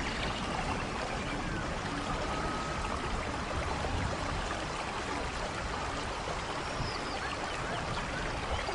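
Steady heavy rain pouring down, an even, constant hiss of water with no single drops standing out.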